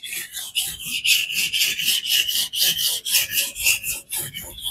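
Knife blade stroked along a King whetstone in a fixed-angle guided sharpening system: a rasping scrape of steel on stone in quick, even strokes, several a second.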